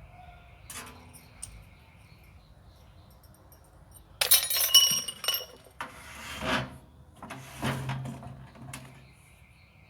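Loose metal parts from a dismantled microwave oven clattering and clinking as they are handled and set down. A sharp, ringing clatter comes about four seconds in, followed by a few duller knocks and scrapes.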